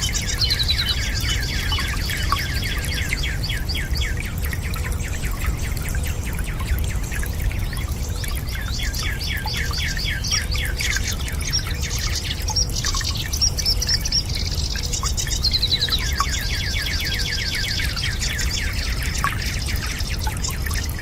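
Birds singing in rapid chirping trills, in several bouts, over a steady low rush of water with a few faint drips.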